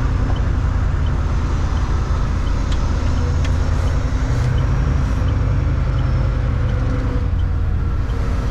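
Semi truck's diesel engine running steadily, heard from inside the cab. A faint regular tick comes a little under twice a second.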